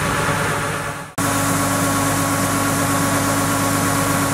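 Yanmar YH700 combine harvester's diesel engine running steadily. About a second in, the sound fades and cuts out briefly, then comes straight back in at full level with a steady hum.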